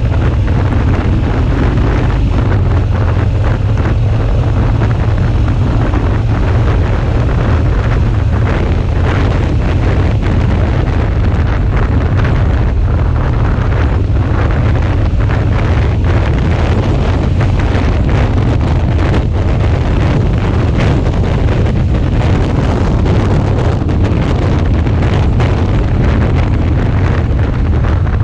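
Wind buffeting the action camera's microphone on a moving motorcycle, a steady loud low rush. The Suzuki V-Strom 650's engine and road noise run underneath it.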